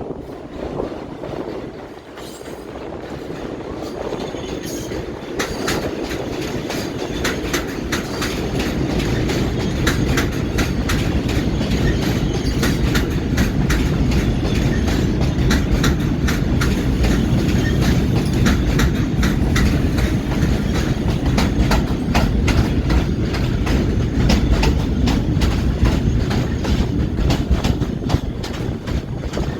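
New York City subway train running through the station without stopping, its wheels clicking rapidly over the rail joints. The rumble grows louder over the first several seconds as it approaches, then holds steady as the cars pass.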